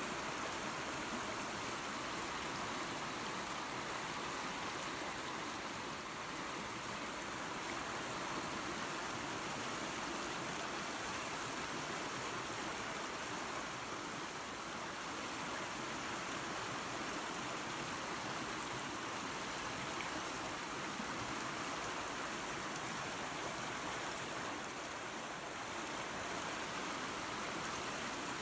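Small waterfall and creek running water: a steady, even rush with no breaks.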